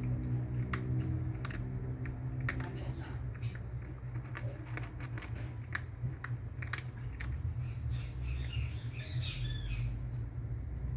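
A pet dog or cat crunching dry food in irregular sharp clicks over a steady low hum, with a short high chirping sound about nine seconds in.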